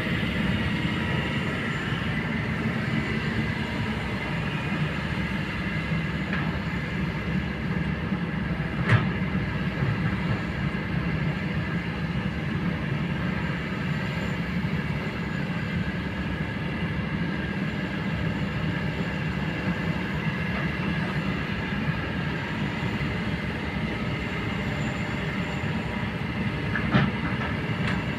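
Kobelco excavator's diesel engine running steadily at work, with two sharp clanks: one about nine seconds in and one near the end.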